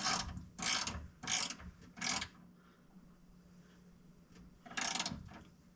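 Hand ratchet clicking in four short rasping strokes, then a pause and one more stroke near the end, as a 13 mm lock nut is run onto the shift linkage.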